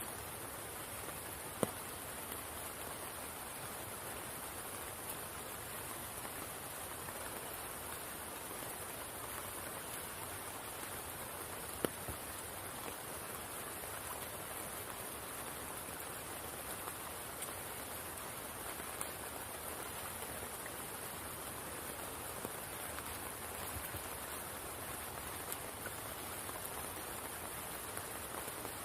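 Steady rain falling on a spring pool, an even hiss of drops, with a few louder single drops landing close by, about two seconds in and again about twelve seconds in.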